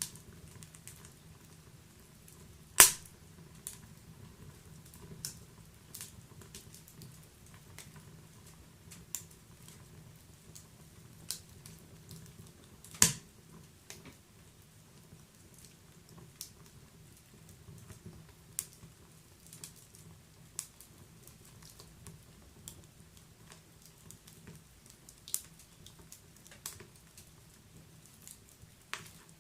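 Wood fire in a fireplace crackling, with irregular small pops and two much louder sharp pops, about three seconds in and again around thirteen seconds, over a faint steady low rumble.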